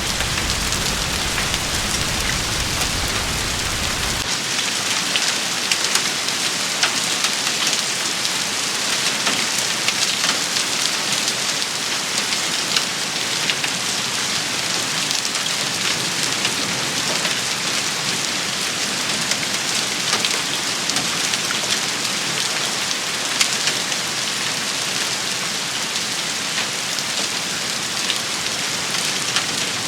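Steady heavy rain shower, with many sharp drop impacts pattering through it. A low rumble underlies the first four seconds and cuts off abruptly.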